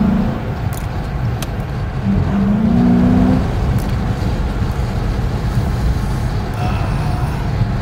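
A Dodge Challenger's Hemi V8 and its road noise, heard from inside the cabin while driving at low speed: a steady low rumble. About two seconds in the engine note swells and rises slightly for a second or so, then settles.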